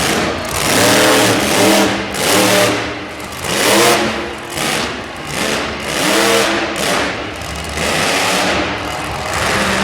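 Monster truck engine revving hard in repeated bursts, each surge rising in pitch and dropping back, about six times in quick succession.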